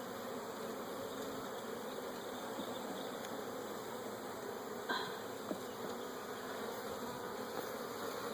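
Honey bee colony buzzing from an open hive, a steady hum, with a faint click about five seconds in.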